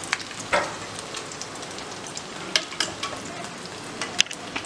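Samosas shallow-frying in oil in a pan on low heat, with a steady bubbling sizzle and scattered sharp crackles.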